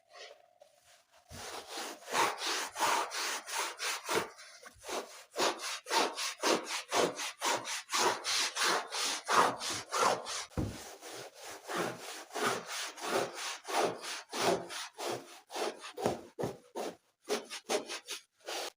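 Rhythmic back-and-forth scraping strokes, about three a second, with a brief pause a few seconds in.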